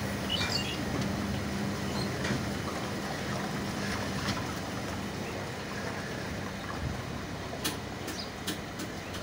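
Steady running noise of a train heard from on board as it moves through floodwater covering the tracks, with a low hum in the first few seconds and a few sharp clicks near the end.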